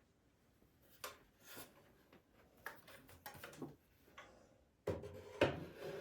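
Household objects being handled: scattered small clicks and rustles, with a louder run of knocks and handling noise near the end.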